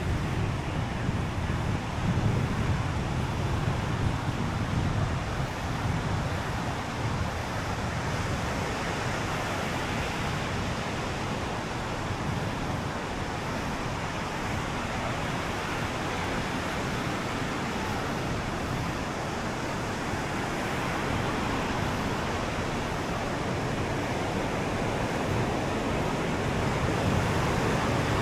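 Ocean surf washing onto a sandy beach in a steady rush, with wind rumbling on the microphone.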